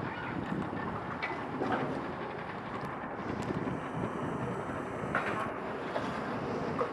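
Steady wind noise on the microphone over a low, even rumble, with a few faint clicks.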